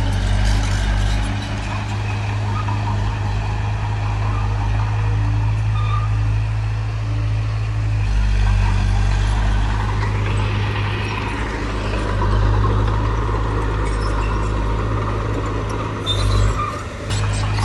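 Heavy diesel engine of earthmoving machinery running with a steady low drone, easing off and picking up again a few times, with a few short metallic clatters near the end.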